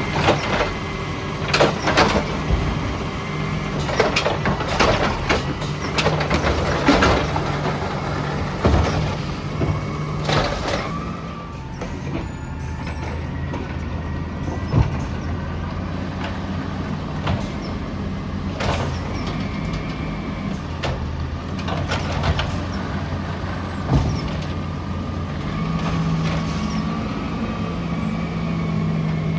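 Peterbilt 320 garbage truck's engine running steadily, with repeated sharp knocks and clatter through the first ten seconds or so and a few single knocks later on.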